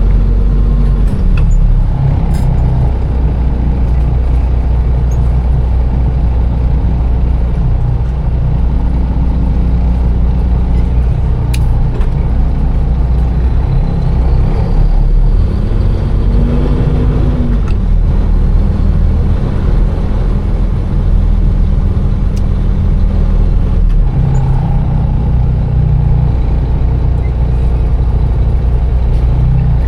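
Diesel engine of a container truck running steadily, its pitch stepping and gliding up and down a few times as the revs change, notably around a second in, mid-way, and near the end.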